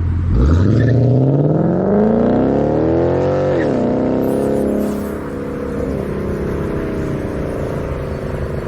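Ford Coyote 5.0 V8 in a 2014 Mustang GT with a Roush axle-back exhaust, cold-started for the first time after new spark plugs. It fires at once and its revs climb for about three seconds, drop back sharply, then settle into a steady fast idle.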